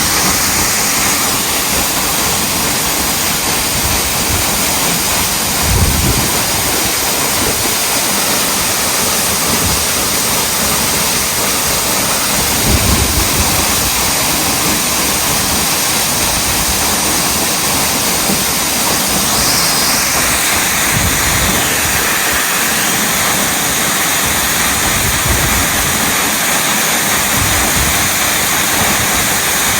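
Waterfall pouring, a loud, steady rush of falling water, with two brief low bumps about six and thirteen seconds in.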